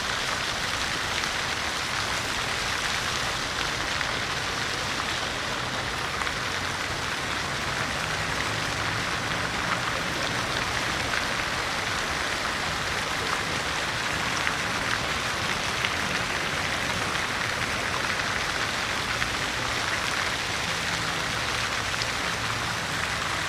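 City fountain's water splashing in a steady, unbroken hiss, with fine droplet patter throughout.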